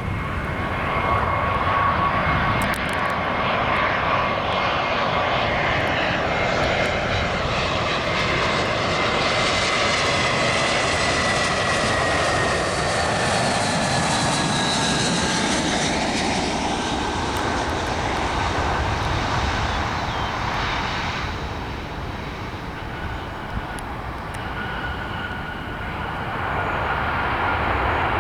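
Airbus A321 jet airliner's turbofan engines passing, a broad rushing noise with a whine that slides slowly down in pitch, loudest about halfway through and easing off later.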